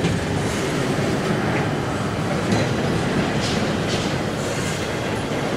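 Intermodal freight train's well cars rolling past: a steady rumble of steel wheels on the rails, with one louder knock about two and a half seconds in.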